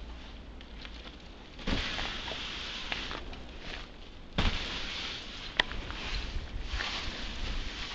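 Footsteps crunching in light, fluffy snow, in two stretches starting about two seconds in and about four and a half seconds in, with one sharp click in the middle.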